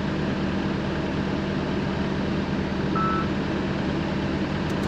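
Engine of heavy earthmoving equipment running steadily, with one short high beep about three seconds in.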